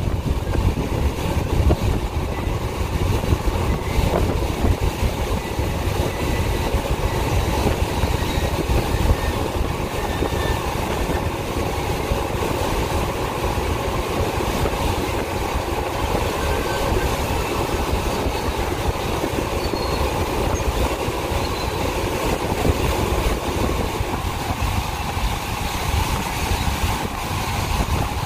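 Freight cars of a passing Union Pacific manifest train rolling by: a steady, continuous rumble of steel wheels on rail.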